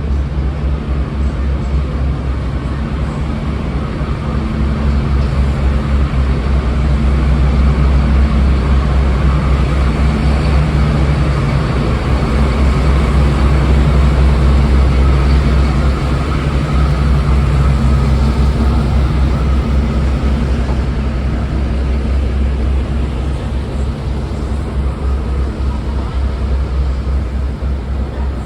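Class 52 Western diesel-hydraulic locomotive D1015's twin MTU V12 diesel engines running, a loud, deep, steady drone. It swells louder a few seconds in, holds, then eases off a little near the end.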